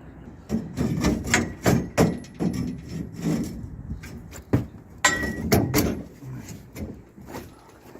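Irregular series of knocks and clanks from tools striking metal, two or three a second, some ringing briefly, starting about half a second in.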